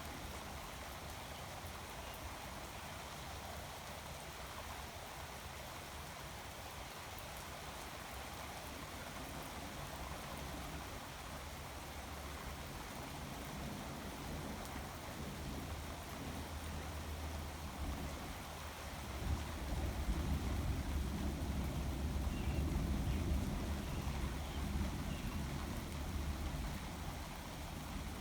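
Steady rain, with a low rumble of thunder swelling about nineteen seconds in and easing off a few seconds before the end.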